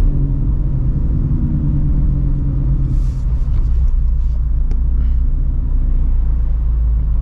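Straight-piped Shelby GT350's 5.2-litre flat-plane-crank V8, with long-tube headers, running steadily at low revs with a deep, loud rumble.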